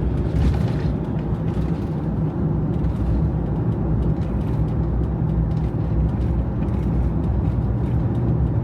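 Camper van driving at a steady pace, heard from inside the cab: a steady low engine hum with road and tyre rumble.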